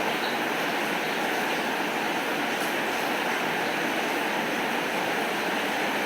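Heavy rain falling steadily, an even wash of noise with no let-up.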